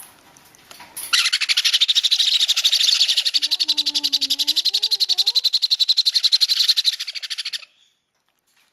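Baby parrot's rapid, rhythmic begging call while being syringe-fed, a fast even stream of high-pitched pulses that starts about a second in and stops abruptly near the end.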